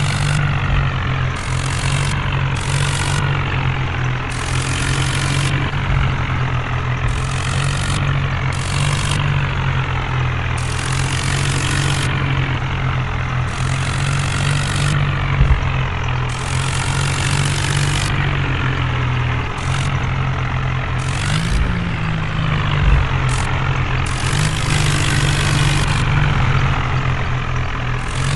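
Tractor engine running steadily under a constant low engine note, with short bursts of hiss that come and go.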